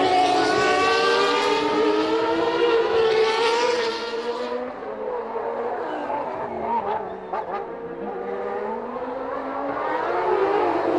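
Several 1989 Formula One cars' naturally aspirated 3.5-litre engines at high revs, with overlapping engine notes sliding in pitch as they pass and change gear. The engines are loudest for the first four seconds or so, fade in the middle, and another car's engine note builds near the end.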